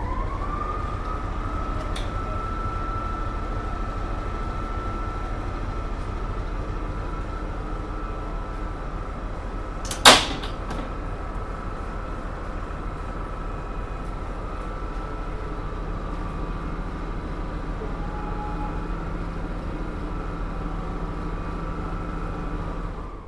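Train hauled by a Class 73 electro-diesel locomotive, running: a steady high whine over a low rumble, with one sharp bang about ten seconds in.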